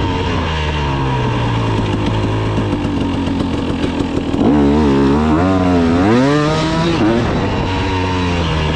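KTM 300 two-stroke dirt bike engine running under throttle. It holds a fairly even note for about the first half, then revs up and drops back several times.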